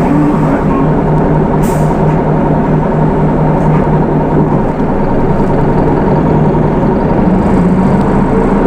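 Hino Rainbow II bus's Isuzu 4HK1 four-cylinder diesel running steadily, heard from inside the cabin, its engine note shifting a little past the middle. A brief click about two seconds in.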